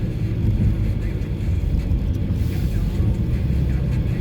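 Car driving on a highway: a steady low rumble of road and tyre noise with the engine.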